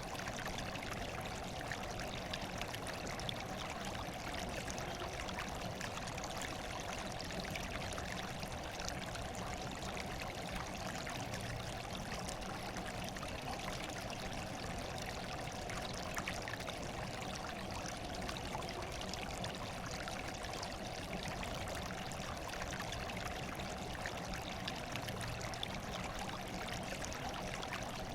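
Steady running water, trickling and pouring without a break.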